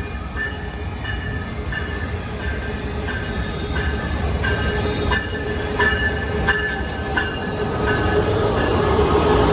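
Coaster commuter train rolling through on the rails: a steady low rumble with short, intermittent high wheel squeals, growing louder near the end.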